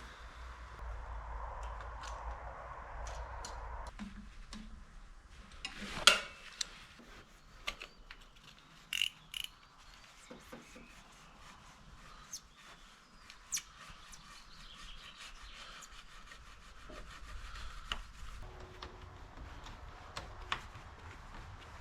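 Hands working coolant hose and tubing into place: stretches of rubbing and scraping, with scattered clicks and knocks of tools and clamps, and one sharp knock about six seconds in.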